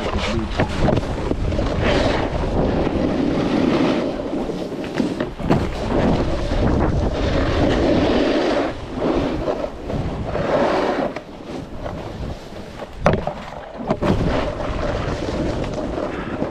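A snowboard sliding and carving over snow, a rushing scrape that swells and eases from turn to turn, with wind buffeting the microphone. There are a few sharp knocks near the end.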